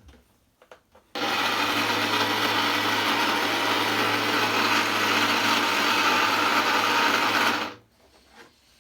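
Graupner Speed 400 7.2-volt brushed electric motor with its gearbox in a model boat running at a steady speed, switched on about a second in with a low steady hum under a high whirr, then cutting off near the end. A few small clicks come just before it starts.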